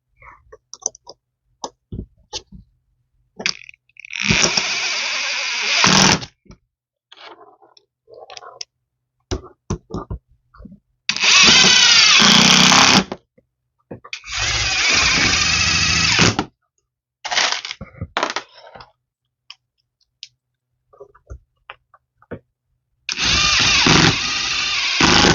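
A handheld power tool run in several bursts of one to two seconds each, with the motor speed rising and falling in one of them. Scattered knocks and clicks come between the bursts.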